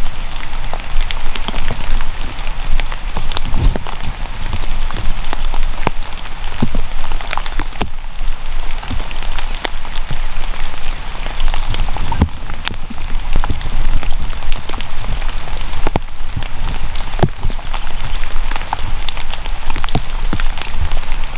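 Steady rain, with many individual drops striking close to the microphone as irregular sharp taps.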